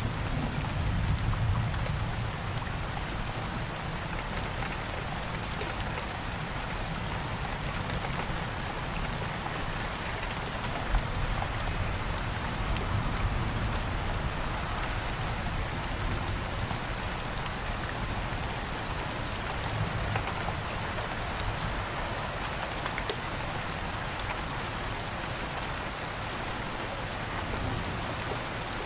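Steady heavy rain beating on window glass, an even wash with occasional sharper drop taps. A low rumble underneath is louder in the first couple of seconds and then settles.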